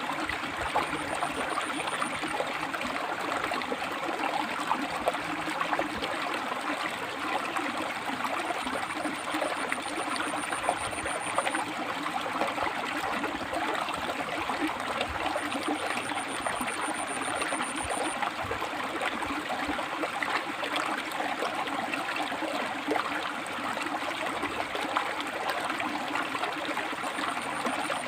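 River water flowing over and between rocks: a steady rushing with trickling and gurgling. A faint, thin, high-pitched trill comes and goes several times.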